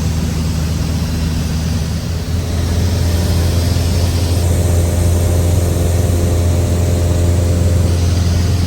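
Cessna 172's piston engine and propeller droning steadily, its note stepping up and getting slightly louder about two seconds in.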